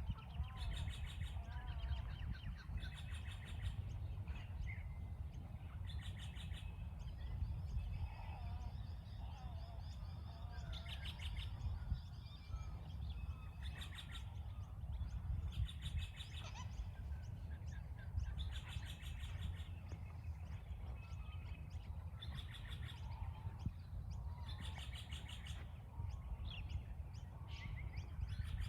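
Several birds calling. A harsh, rasping call of under a second repeats about every two seconds over softer warbling calls, with a steady low rumble underneath.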